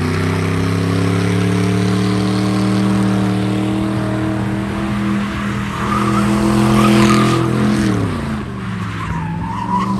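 A car doing a burnout: its engine is held at steady high revs while the tyres spin and squeal, then the revs fall away about eight seconds in.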